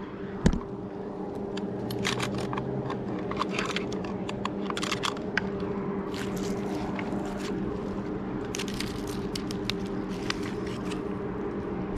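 Scattered crunching and scraping clicks from climbing gear moving against bark, over a steady low hum.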